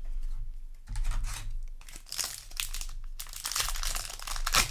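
Foil Magic: The Gathering booster pack wrapper crinkling and crackling as it is handled, sparse at first and busier from about two seconds in, with a sharp loud crackle near the end.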